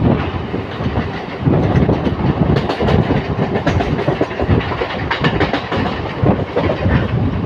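Passenger train running at speed, heard from its open doorway: a steady rumble of the coach with the wheels clattering over the rails.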